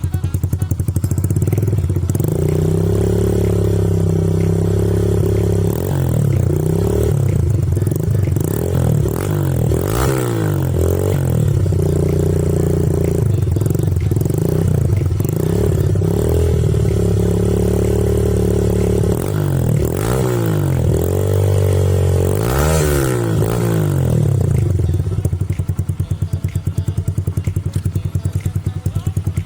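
Motorcycle engine running through an aftermarket Over exhaust with its dB killer removed. It is held at steady revs, revved up and down several times, and drops back to a pulsing idle near the end.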